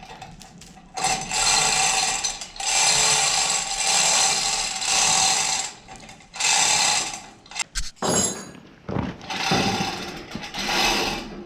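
Manual chain hoist being hand-pulled to lift an ATV, its chain rattling through the sheave and ratcheting in about six separate pulls of one to two seconds each, the longest in the first half.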